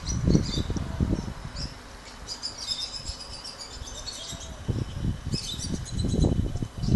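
Small birds chirping in quick high clusters, twice. Irregular low rumbling bursts come at the start and again through the last couple of seconds.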